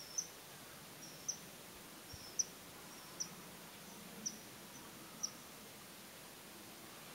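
Female common kingfisher calling: six sharp, high-pitched notes about once a second, each a soft short lead-in and a quick falling peak, stopping after about five seconds. An unusual call for this bird, given in the breeding season shortly before courtship feeding.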